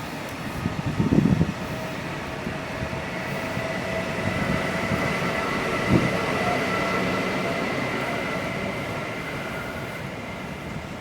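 A train running past, its rumble growing louder and then slowly fading, with a steady high whine over it. A burst of knocks about a second in and one sharp knock near the middle.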